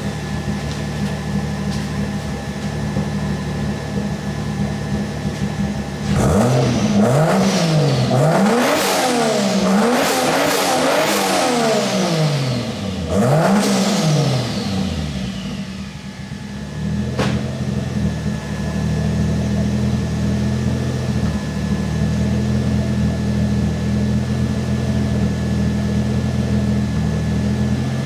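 Toyota 2JZ inline-six running through a newly welded 3-inch exhaust and muffler, warming up at a steady idle. About six seconds in it is revved several times in quick succession, then drops back to a steady idle.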